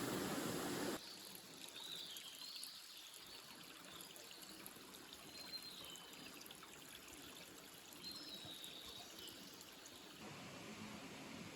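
Shallow river water flowing and trickling, with a few faint bird chirps. A louder steady hiss cuts off suddenly about a second in.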